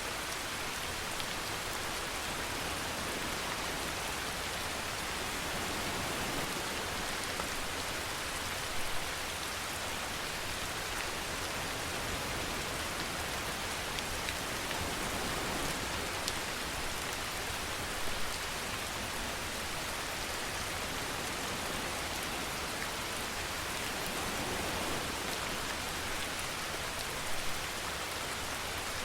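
Steady rainfall, an even dense hiss of falling rain, with brief slightly louder moments about every nine seconds.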